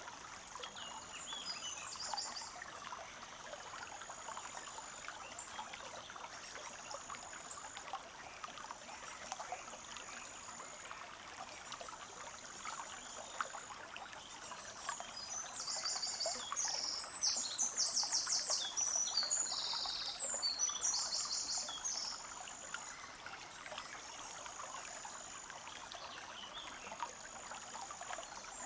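Small forest stream trickling and babbling steadily. Over it, a short high trill repeats every few seconds, and a bird sings bursts of rapid high notes in the middle.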